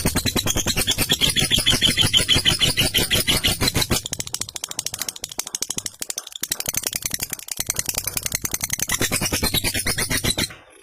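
Lovebird giving a long 'ngekek' call: a fast, rattling, unbroken run of high chattering notes that goes on for about ten seconds and then stops just before the end.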